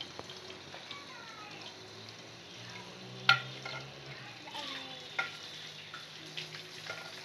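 Chicken keema pakoras frying in hot oil in an aluminium karahi, a steady sizzle, while a metal ladle turns them and clinks against the pan a few times. The loudest clink comes about three seconds in.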